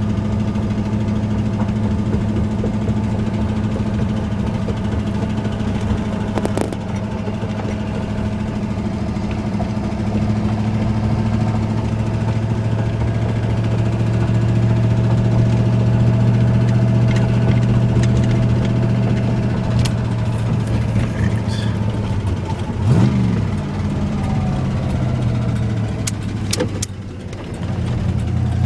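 Ford Ranger's 302 (5.0-litre) V8 running steadily while driving, with a rod knock from a failing bearing. About three-quarters of the way through, the engine note rises and falls briefly.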